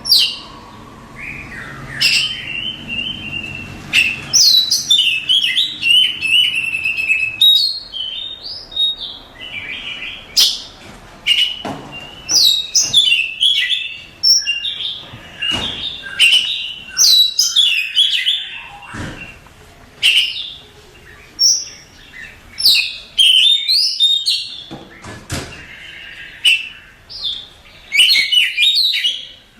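Oriental magpie-robin (kacer) singing: varied bursts of clear whistles, harsh chatter and rapid trills, each a second or two long with short pauses between them.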